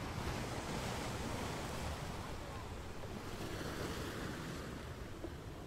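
Steady rushing noise of ocean waves and surf, easing slightly near the end.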